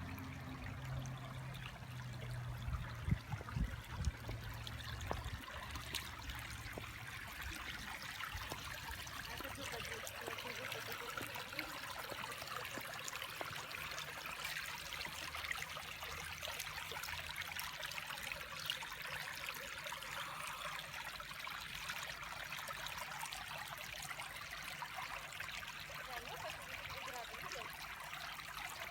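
Steady rush of flowing water, like a stream, with a low rumble under it for the first several seconds and a few knocks about three to four seconds in.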